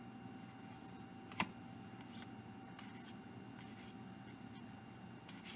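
Faint handling of trading cards as they are flipped through, with one click about a second and a half in.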